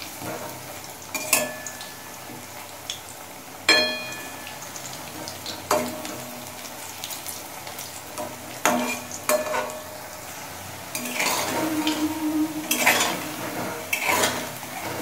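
Kofta balls frying in hot oil in an aluminium kadai, a steady sizzle, while a metal spatula turns them, knocking against the pan about seven times with a short metallic ring each time.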